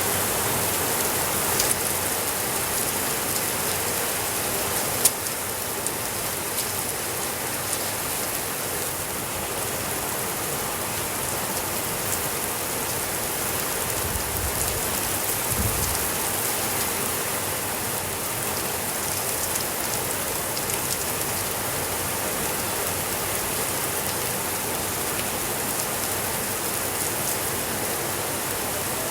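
Steady rainfall, a dense even hiss of drops, with a few sharp clicks, the loudest about five seconds in.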